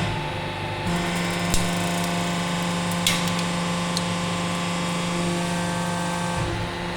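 Hydraulic press pump motor running with a steady hum, with a few short cracks about 1.5, 3 and 4 seconds in.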